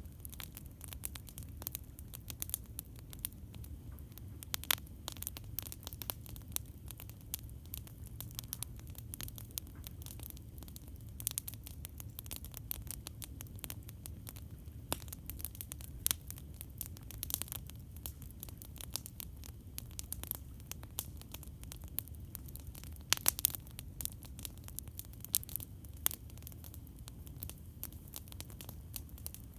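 Campfire crackling: irregular sharp pops and snaps, a few louder ones bunched together about three-quarters of the way through, over a steady low rumble.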